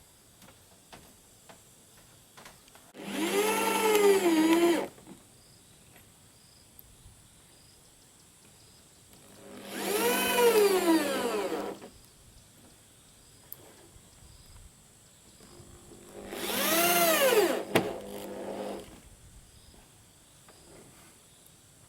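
Electric power drill run three times in short bursts of about two seconds, its motor whine rising in pitch and then falling away each time. Light clicks and knocks of handling come in between.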